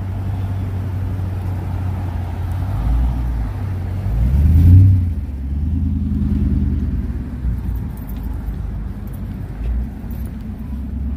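A motor vehicle's engine and road noise, a steady low rumble that swells about five seconds in.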